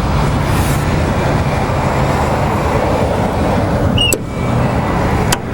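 2014 Harley-Davidson Road King's 103 cubic-inch V-twin idling through Vance & Hines mufflers, a steady low rumble, with a short dip about four seconds in.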